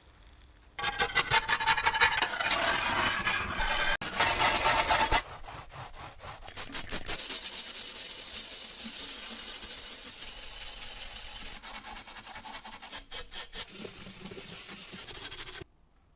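Hand or power tool scraping and rubbing at a surface, in cut-together clips: loud, fast rasping strokes for the first few seconds, then a steadier, softer hiss of abrading that cuts off suddenly near the end.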